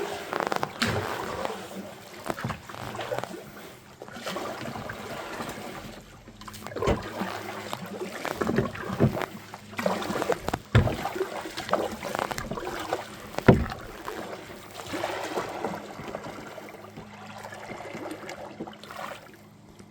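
A kayak being paddled: uneven splashing and dripping water from the paddle strokes, broken by several sharp knocks, the loudest about thirteen and a half seconds in.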